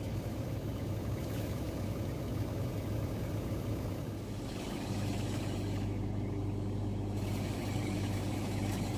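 Machinery running steadily: a continuous low hum with a dense mechanical drone over it, slightly louder in the second half.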